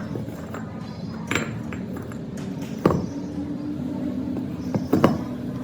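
Sharp metal-on-metal clanks of steel parts and tools being struck or knocked together, four times with the last two close together, over a steady low machine hum.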